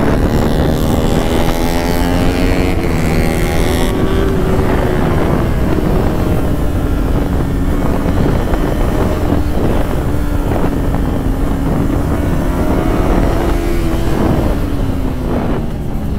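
Yamaha R3's 321 cc parallel-twin engine running under way, heard from the bike with wind buffeting the microphone. The engine pitch holds fairly steady, then drops near the end as the bike eases off.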